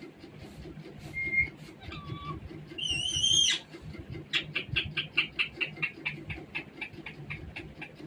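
Parrot calling: a short whistle, a louder wavering call about three seconds in, then a rapid run of short chirps, about five or six a second.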